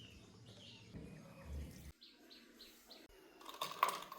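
Birds chirping faintly in short, separate chirps, four of them close together in the middle. Near the end there is a light clicking and clattering.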